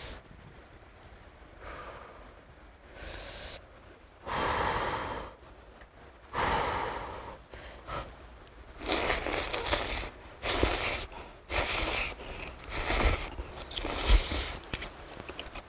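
Ramen noodles being slurped: a series of short, breathy slurps, sparse at first and then coming about once a second over the second half.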